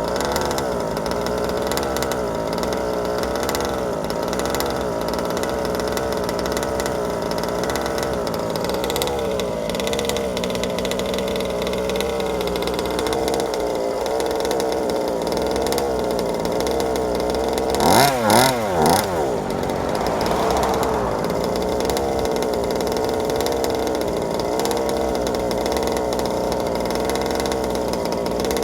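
Small 32cc two-stroke gas engine of a 1/5-scale RC car, exhaling through a DDM Side Dominator pipe, idling with a slightly wavering pitch while being broken in. About two-thirds through it gets three quick throttle blips, each a short rise and fall in revs.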